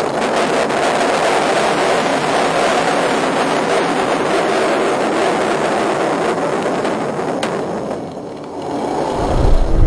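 Steady rushing vehicle noise that dies down about eight seconds in, followed by a low engine rumble building near the end.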